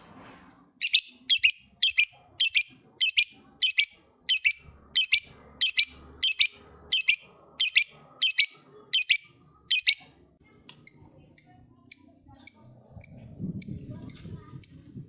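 Lovebird singing 'ngekek': a long unbroken run of sharp, high chattering calls, about two a second, turning fainter after about ten seconds.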